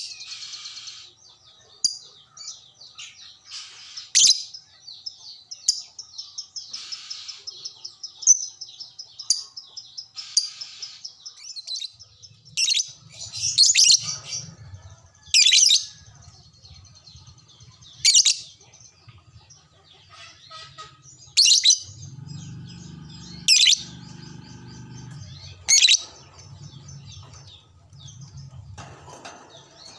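Lovebird calls: high, rapid chattering, then from about twelve seconds in, loud sharp shrieks repeated every two to three seconds.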